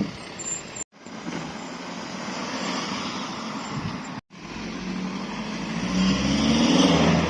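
Passing car with its engine and tyres audible, broken by two abrupt cuts. From about five seconds in, a car engine revs up, its note rising and growing louder.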